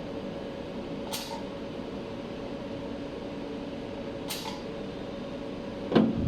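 A 200W jewelry laser spot welder humming steadily while it runs, with two short hissing snaps, one about a second in and another about three seconds later, as laser pulses strike the workpiece. A louder thump comes just before the end.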